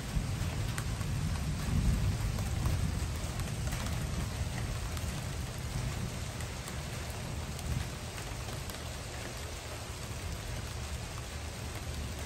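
Steady rain falling, a continuous hiss of drops, with a low rumble in the first few seconds that dies away.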